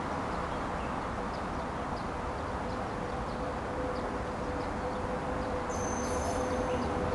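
Steady outdoor background hiss with a few faint high chirps. In the last couple of seconds an approaching train's hum slowly builds, a steady tone joined by a thin high whine.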